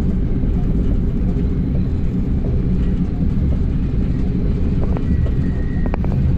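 NJ Transit commuter train heard from inside a passenger car: a steady low rumble of wheels on rail while moving. Near the end come a faint high tone and a few light clicks.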